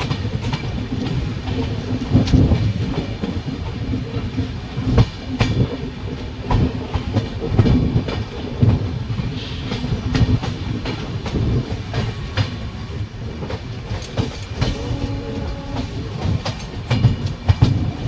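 Running train: a steady low rumble, with wheels clattering irregularly over the rail joints.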